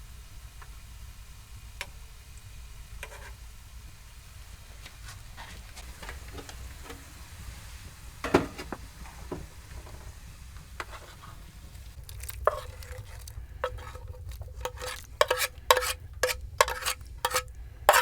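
A metal spoon stirring in metal cookware: scattered soft taps and scrapes, then from about two-thirds in a quick run of ringing clinks against the side, about two a second, each ringing at the same pitch.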